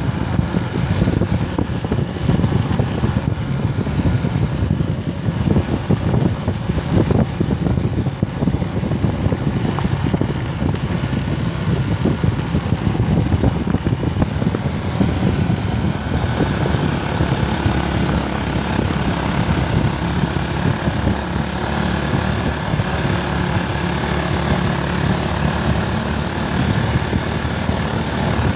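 Motorcycle engine running while riding, with wind buffeting and road rumble. From about halfway the engine settles into a steadier drone.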